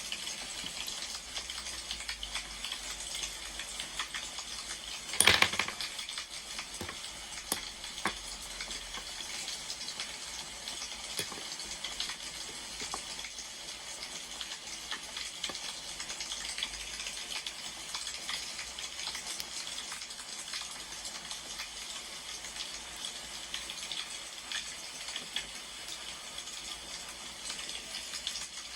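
Wood fire crackling steadily, with many small pops and snaps. One louder sharp sound comes about five seconds in.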